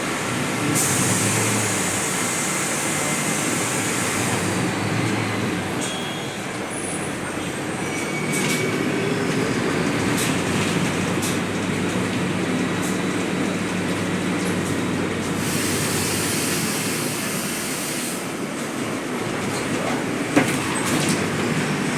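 Steady, loud rumbling noise, with stretches of high hiss near the start and again in the second half, a few light clicks, and one sharp click near the end.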